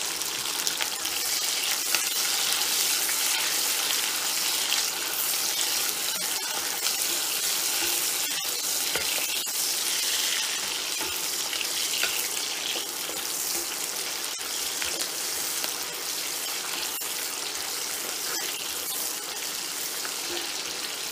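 Green pepper strips sizzling steadily in hot oil in a Lodge 9-inch cast iron mini wok, with a few faint clicks as they are moved about.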